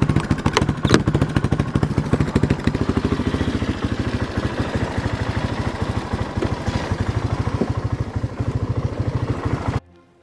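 A small engine running close by with a fast, even putter, at a steady speed; it cuts off abruptly near the end.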